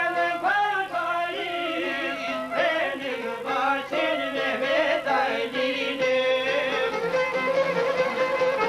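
Albanian folk music with a violin playing a wavering, ornamented melody. About six seconds in, it settles on a long held note.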